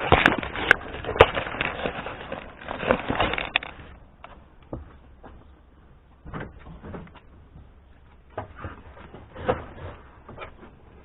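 Car interior trim being pried and pulled loose: dense plastic crackling and clicking for the first few seconds, then scattered lighter clicks and knocks as the panels are handled.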